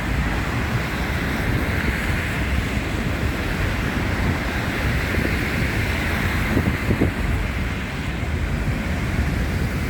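Wind buffeting the phone's microphone in a snowstorm: a steady rushing noise with a heavy low rumble.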